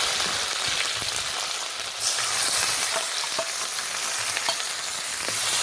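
Onion-garlic paste sizzling hard in hot oil in a kadhai, stirred with a steel spoon that ticks against the pan. The sizzle jumps louder about two seconds in.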